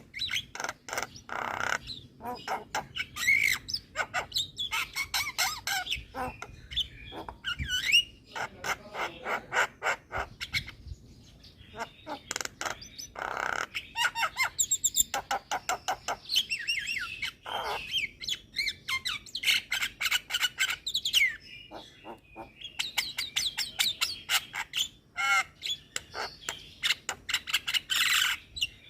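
Javan myna (jalak kebo) singing a long, varied song: rapid runs of clicks mixed with chattering and gliding whistled notes.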